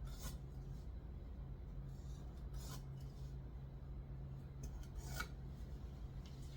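Three short scraping strokes of a hand tool on wood, about two and a half seconds apart, over a steady low hum.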